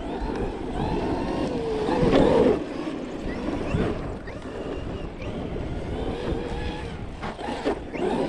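Large electric RC monster truck running on Sledgehammer non-belted tires, its motor whine rising and falling as it accelerates and slows, loudest about two seconds in. A few sharp knocks near the end.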